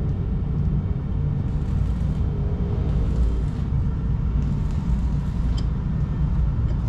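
Steady low rumble with a faint hum, with a small tick about five and a half seconds in.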